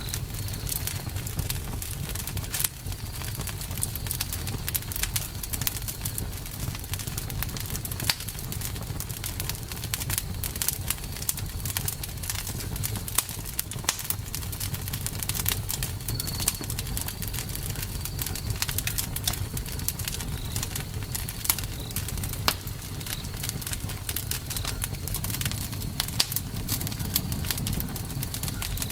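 Campfire crackling: many irregular sharp pops and snaps over a steady low rumble of burning wood.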